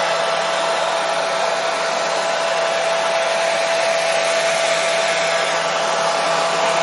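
Hair dryer running steadily: an even rushing blow of air with a constant whine in it, played as white noise to soothe colicky babies to sleep.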